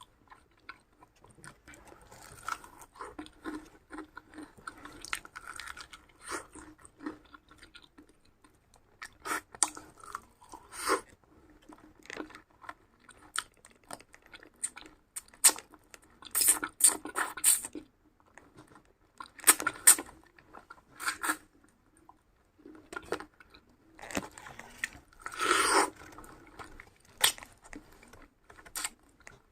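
A person chewing and biting crunchy food close to the microphone: irregular crunches and mouth sounds, with louder bursts of crunching about halfway through and again near the end.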